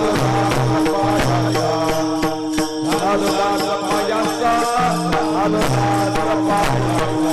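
Devotional kirtan music: chanted singing over a held drone tone, with shifting low notes and a steady beat of jingling percussion.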